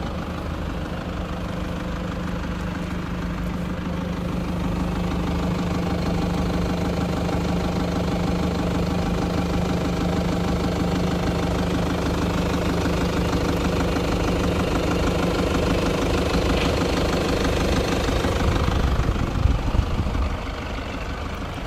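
2015 Toyota Land Cruiser Prado's engine idling steadily, growing slightly louder a few seconds in.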